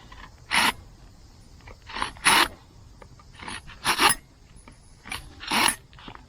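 A hand tool scraping or cutting across wood in about six short, separate strokes, each under half a second.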